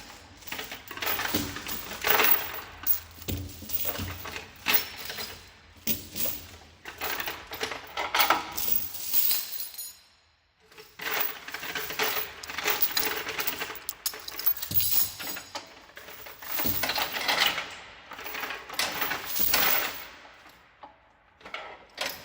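Heavy metal towing chains rattling and clinking as they are handled, in repeated bursts with a short lull about ten seconds in.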